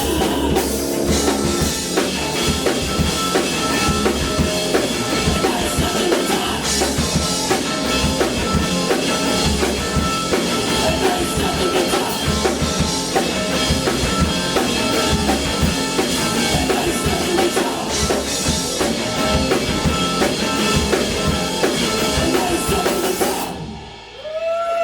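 Live music with a drum kit playing a steady, dense groove; the song stops abruptly about a second before the end.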